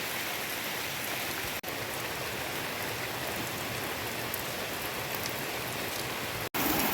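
Steady rain falling, an even hiss, broken twice by a momentary dropout.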